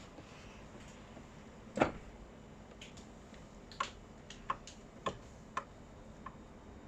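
Hand tools working on the power steering pump's 10mm mounting bolts: one sharp knock about two seconds in, then a string of lighter, irregular clicks.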